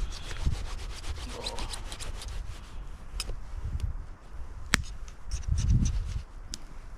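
Campfire crackling: a dense run of small crackles, thinning out after about three seconds, with one sharp pop near the middle.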